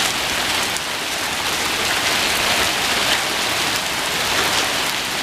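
Heavy rain and hail pelting down in a severe thunderstorm: a steady dense hiss with scattered sharp ticks of hailstones striking.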